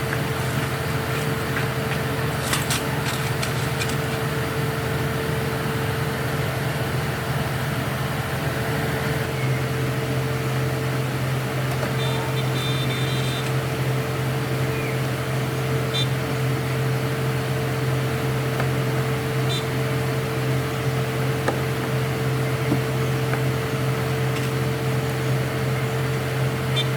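An engine running at a steady speed: an even hum with a steady higher tone over it, settling to a smoother, more even note about nine seconds in.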